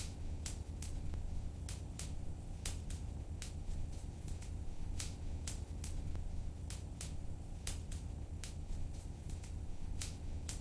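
Wood fire in a fireplace crackling: irregular sharp pops and snaps, a couple a second, over a steady low rumble of the burning fire.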